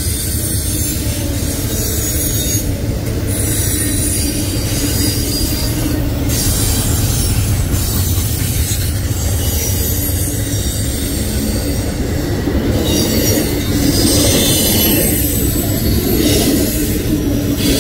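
Double-stack intermodal freight train's well cars rolling past on steel wheels: a steady low rumble with high hiss and some wheel squeal.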